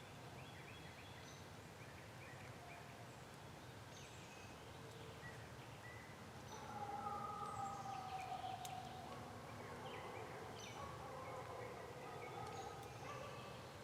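Songbirds chirping, many short scattered high calls, with a louder drawn-out call that falls slightly in pitch about halfway through.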